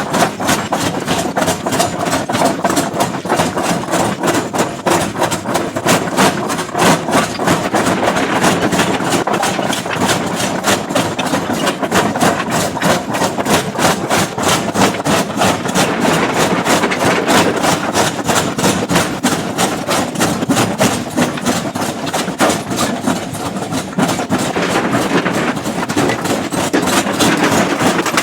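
Heavy rock-breaking machinery working on stone: rapid, evenly repeated impacts, several a second, over a running diesel engine.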